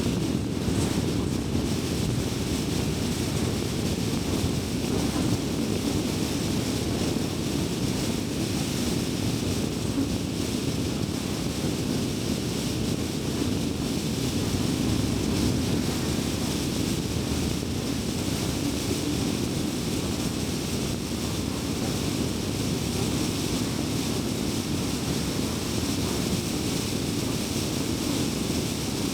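A car travelling at highway speed: a steady, even rumble of road and tyre noise with a fainter hiss above it.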